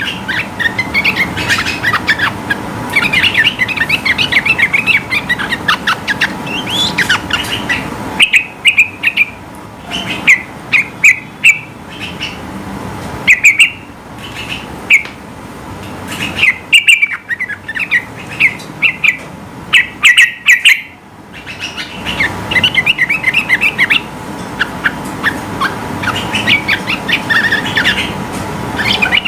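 Yellow-vented bulbul (trucukan) singing in a fast, bubbling chatter of chirps. About eight seconds in it turns to loud, short, emphatic phrases with gaps between them, and after about twenty seconds the rapid chatter returns. A faint steady hum lies underneath.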